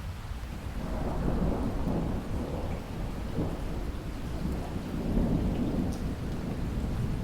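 Steady rain with a long roll of thunder that swells about a second in and keeps rumbling.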